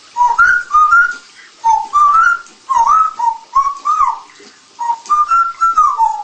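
African grey parrot whistling a tune: three phrases of short, clear whistled notes that step up and down in pitch, with brief pauses between them.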